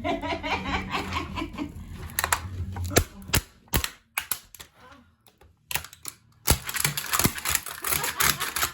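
Model train set cracking and crunching under wedge-heeled shoes: stretches of rapid crackling broken by sharp single snaps, with a quieter gap of a few separate snaps in the middle.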